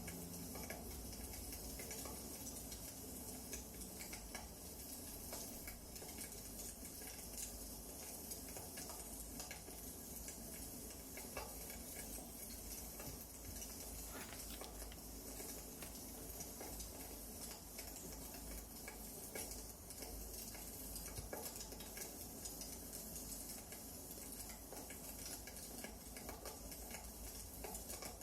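Wood fire burning in a fireplace, crackling with irregular small pops and snaps over a steady hiss.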